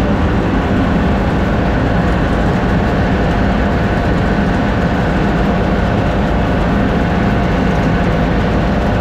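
Grain dryer machinery running with a loud, steady drone and a few faint steady whine tones over it.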